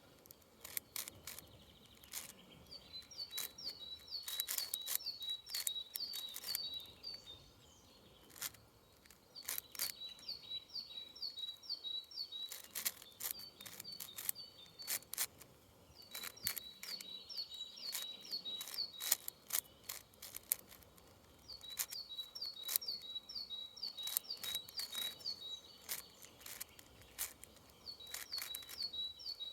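A 6x6 Rubik's cube being turned, its plastic layers clicking in quick runs. A songbird repeats a short phrase of about ten quick high notes every five or six seconds.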